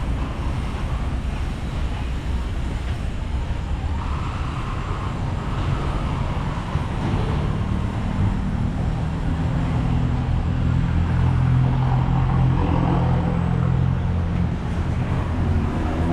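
Road traffic: motor vehicle engines running close by, with a steady low hum through the middle and latter part over general street noise, and an engine starting to rev up right at the end.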